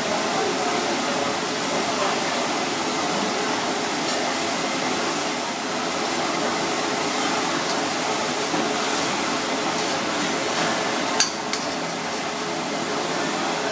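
Bitter melon, tofu and egg stir-fry sizzling steadily in a wok over a gas burner, with a single sharp metal clack about 11 seconds in as a utensil strikes the wok.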